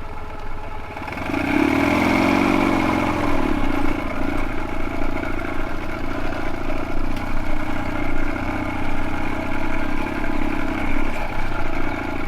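Dnepr MT16 sidecar motorcycle's boxer-twin engine running; the revs rise and fall about two seconds in, then it runs steadily.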